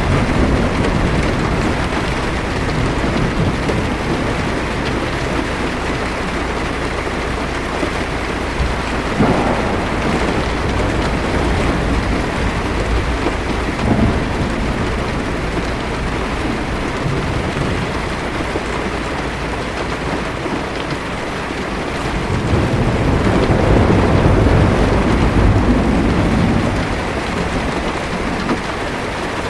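Heavy rain drumming steadily on a car's roof and windshield. Two brief sharper cracks come in the first half, and a low thunder rumble swells and fades in the second half.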